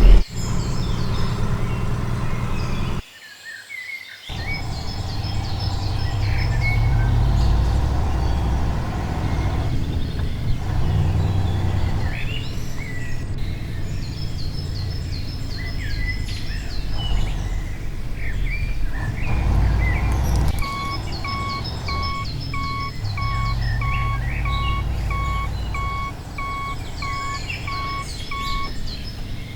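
Birds chirping over a steady low rumble, with a brief drop in level about three seconds in. Past the two-thirds mark, an electronic beep like a reversing warning starts, sounding about twice a second until near the end.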